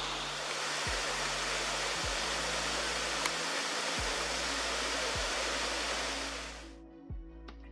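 Waterfall's steady rush of falling water, fading out about seven seconds in. Soft background music with a low beat about once a second plays under it.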